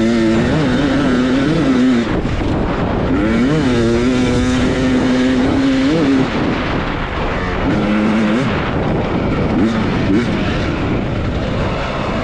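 Beta off-road dirt bike engine under a rider's throttle, holding a steady pitch then revving up and dropping back several times as the bike works over rough terrain, over a constant rush of wind and tyre noise.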